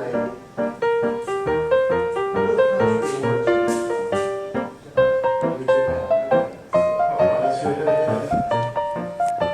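Background piano music: a quick, steady run of single struck notes.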